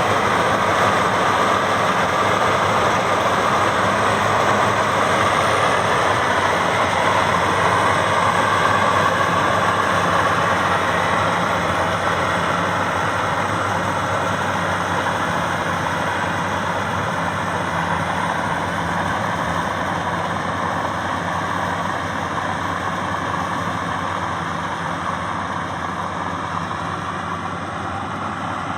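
Maxxi Bimo 102 X Top combine harvester running steadily, a dense mechanical din with a low engine hum under it, growing slowly quieter over the second half.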